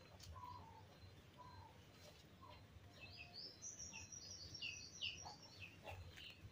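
Faint bird chirping over near silence: a few soft calls, then a quick run of short, high, falling chirps from about three seconds in.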